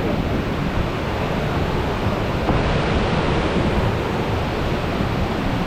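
Steady rush of river water from the waterfall, with a low rumble of wind on the microphone.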